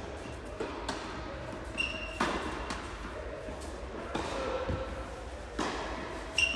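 Tennis ball being struck by racquets and bouncing on the court: a few sharp pops a second or more apart.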